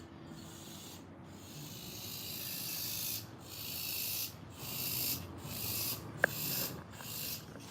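Cicadas buzzing in a high-pitched, raspy chorus that comes in repeated surges, cutting off and starting again every half second to second and growing louder over the first few seconds. A single short sharp tick a little past six seconds in.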